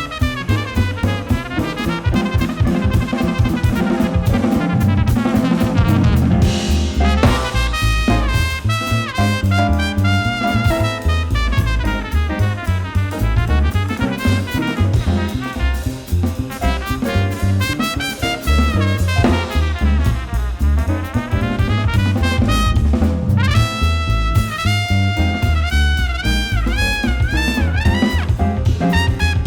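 Small jazz band playing live: a lead instrument plays fast runs that climb and fall over a busy drum kit and low bass notes.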